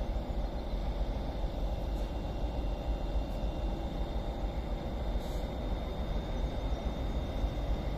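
Northern Class 319 electric multiple unit running steadily as it pulls out of the platform: a low rumble with a faint, steady high whine.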